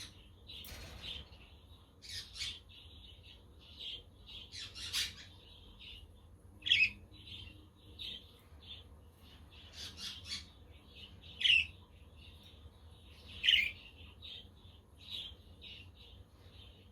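Budgerigars chirping and warbling in a continuous chatter, broken by three loud, sharp calls about 7, 11½ and 13½ seconds in.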